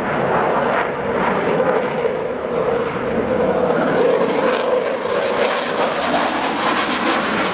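Aircraft engine noise from a fixed-wing airplane, a loud, steady roar that starts abruptly and is cut off sharply at the end.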